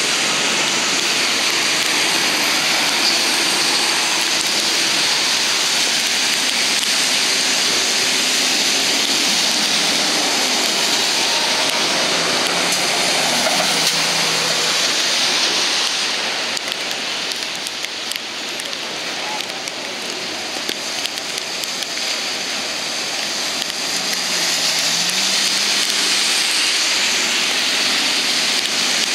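Heavy rain falling in a steady, loud hiss that eases for several seconds past the middle, then builds again.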